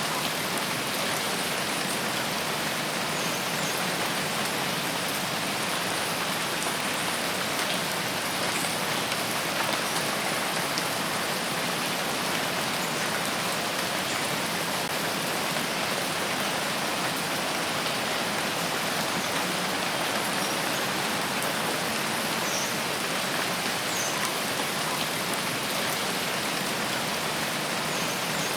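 Steady rain falling in a forest, an even hiss of drops on leaves and ground, with a few faint, short high chirps now and then.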